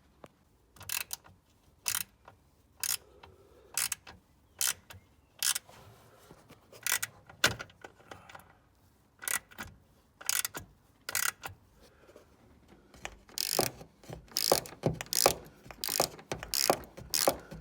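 Ratchet wrench clicking in short back-and-forth strokes as bolts holding a wiper transmission are unscrewed. The clicks come about once a second at first, then faster and louder for the last few seconds.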